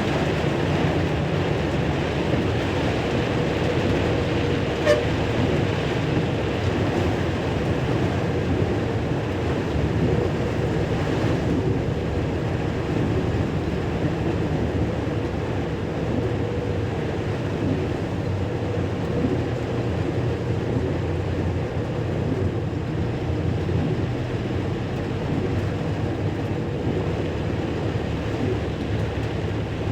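Steady noise of a vehicle moving through heavy rain: engine and road rumble mixed with rain, with a faint steady hum and one sharp click about five seconds in.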